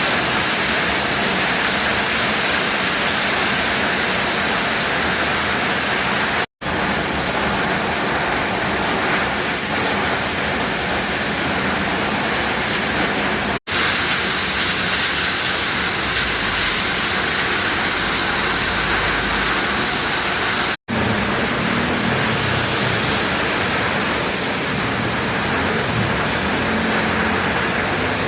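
Heavy rain falling, a steady dense hiss that cuts out briefly three times.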